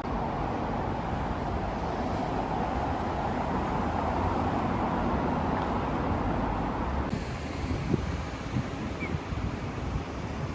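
Outdoor traffic noise, a steady passing-vehicle rumble and hiss, with wind buffeting the microphone. The vehicle noise drops away abruptly about seven seconds in, leaving the wind rumble.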